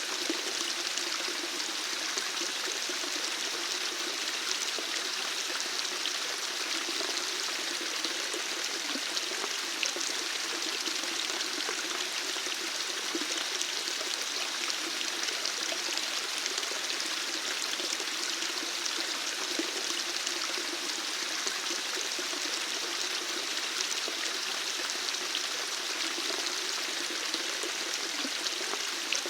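Steady running water, a continuous even splashing and bubbling flow with no change in level.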